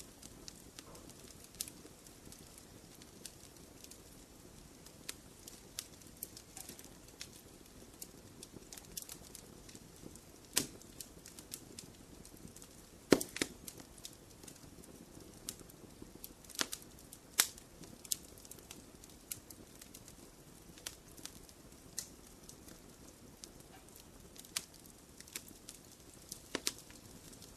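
Wood fire in a fireplace crackling over a soft low hiss, with scattered sharp pops; the loudest pop comes about halfway through.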